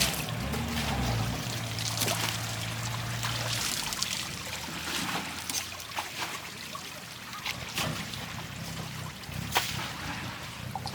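Water trickling and splashing, with scattered small knocks and a low diesel engine hum underneath that is steady for the first few seconds and then fades.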